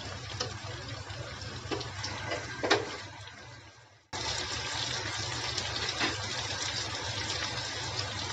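Chicken pieces and halved garlic cloves sizzling in hot oil in a wok, with a few sharp clicks of metal tongs against the pan. The sizzle fades away a little before halfway, drops out for a moment, then cuts back in abruptly and carries on steadily.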